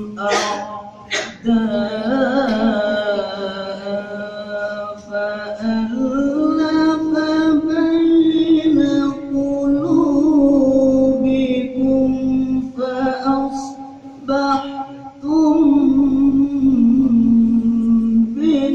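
A man reciting the Quran in melodic tilawah style: long, drawn-out notes with wavering ornaments, in phrases broken by short pauses about five and fifteen seconds in.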